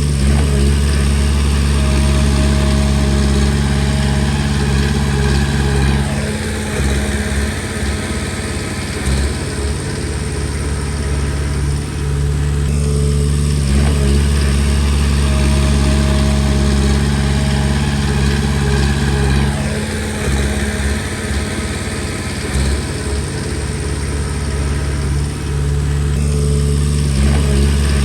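Komatsu D20P bulldozer's diesel engine running continuously under work, its note shifting about every six to seven seconds as the machine alternates between load and lighter running.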